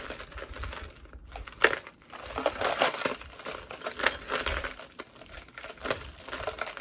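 Metal jewelry chains, beads and clasps clinking and rattling as the pieces are handled and set down, with a dense run of small clicks.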